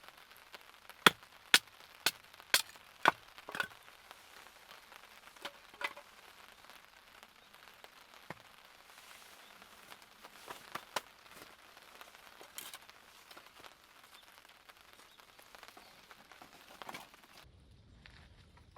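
Firewood being chopped: six sharp knocks about two a second, then a few scattered lighter knocks, over a faint hiss of light rain.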